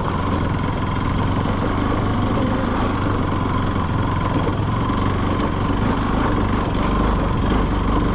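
A motor vehicle's engine running steadily during a ride on a rough road, mixed with road and wind noise.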